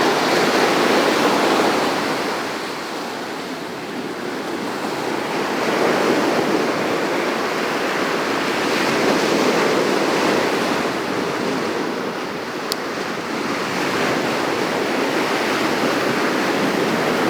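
Ocean surf washing onto the shore, an even rushing noise that swells and eases every few seconds.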